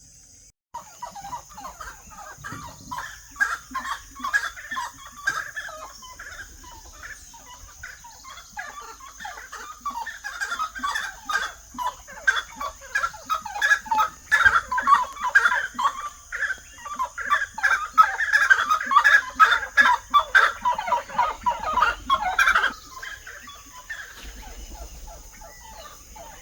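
A group of birds calling together in a dense chorus of short, rapid calls. It builds over several seconds, gets loudest in the second half, then stops abruptly a few seconds before the end. A steady high insect drone runs underneath.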